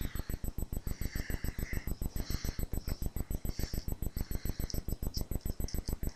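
Short scratching and scraping at a cardboard package being worked open with a hand tool, over a steady, rapid low pulsing of about eight beats a second.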